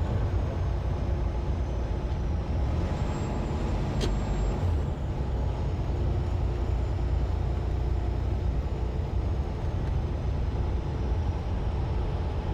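Inside a semi-truck's cab on the highway: steady engine and road rumble as the tractor-trailer drives along, with a single sharp click about four seconds in.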